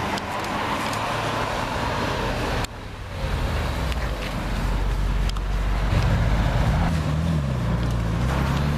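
Audi RS6 Avant engine running with a deep low rumble, cut off abruptly about 2.7 seconds in. A louder rumble follows, with the engine note rising and falling over the last few seconds as the car is driven at low speed.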